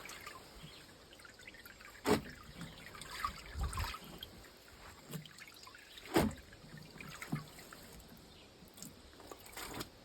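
Water trickling and dripping off wet, just-washed clothes as they are lifted out of a hand washing machine's basket, with sharp knocks about two and six seconds in.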